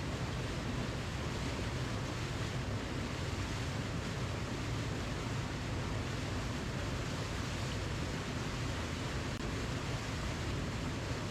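Steady rushing of a waterfall: an even, unbroken roar of falling water, heaviest in the low end.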